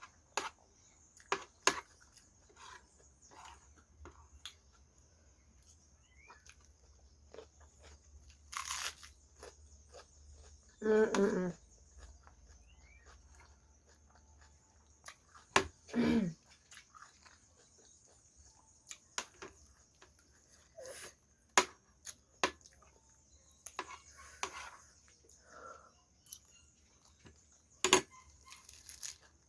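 Close-miked eating: a person chewing curry and rice, with scattered lip smacks and mouth clicks. Twice, about a third and halfway in, a short murmured 'mm' of enjoyment.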